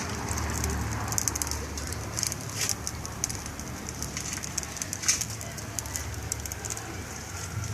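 Bonfire of coconut shells crackling, with many sharp irregular pops over a steady low rumble.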